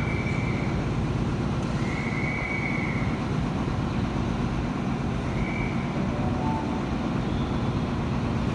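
Steady low rumble of an approaching New Intercity Fleet electric passenger train, with three brief high-pitched squeals: one at the start, one about two seconds in, one about five seconds in.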